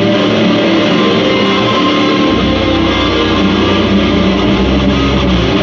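Loud electric guitar playing sustained, heavy chords, with a deep low note coming in about two seconds in.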